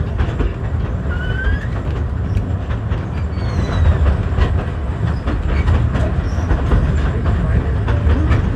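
Steam train rolling along the track, heard from aboard: a steady low rumble with wheels clicking over the rail joints and a couple of brief high squeaks.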